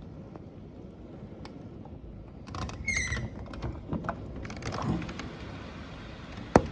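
Low steady rumble of the storm outside, heard from indoors. Midway there is a cluster of squeaks and clicks, one a short high squeal, and a single sharp click comes near the end.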